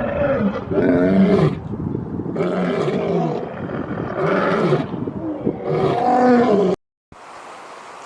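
Lion roaring: a run of loud roars, about one a second, that cuts off abruptly about seven seconds in. A steady outdoor hiss follows.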